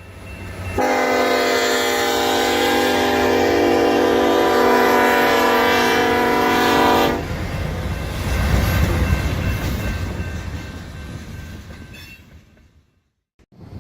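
Diesel freight locomotive's Nathan K3LA air horn sounding one long chord of about six seconds that cuts off sharply, followed by the low rumble of the train, which swells and then fades away.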